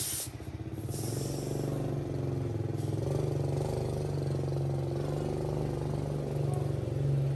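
A small motor running steadily with a fast, even pulse, settling in just after a short hiss of air at the start.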